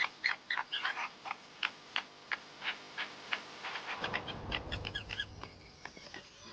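A rapid series of short, harsh animal calls, about two to four a second, that thin out and fade after about five seconds. A low rumble comes in partway through.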